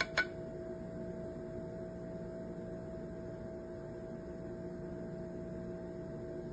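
A steady hum made of several constant tones, with a couple of sharp clicks right at the start.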